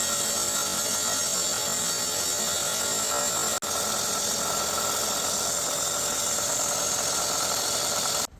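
A woodworking power tool running steadily with a high motor whine. It breaks off for an instant about three and a half seconds in and stops abruptly near the end.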